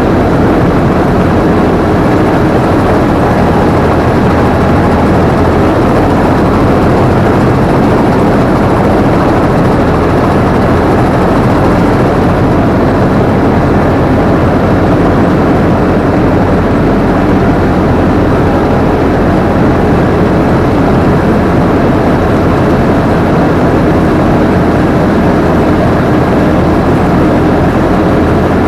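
Combine harvester running steadily under work, its engine and machinery making an even, unbroken din, heard close up from the operator's seat.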